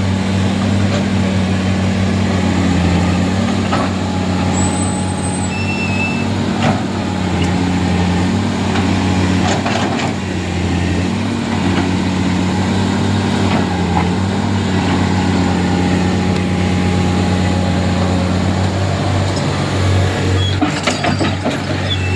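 Heavy diesel engine running steadily with a low hum that rises and falls slightly in pitch, with a few brief knocks.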